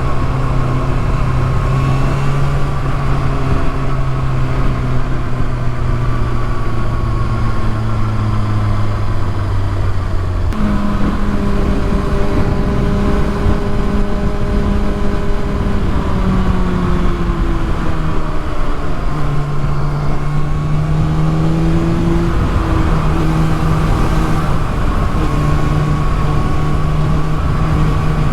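Kawasaki ZX-6R inline-four engine running on the move, its note sagging slowly for about ten seconds, then jumping up sharply and rising and falling with throttle and gear changes, over a steady rush of wind and road noise.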